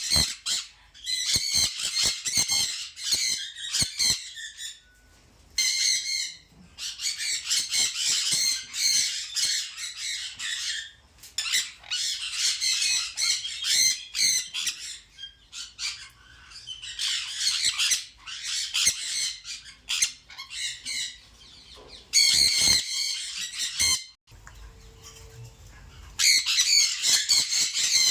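Birds calling in bouts of a few seconds each, high and rapidly pulsing, with short pauses between and a quieter lull near the end.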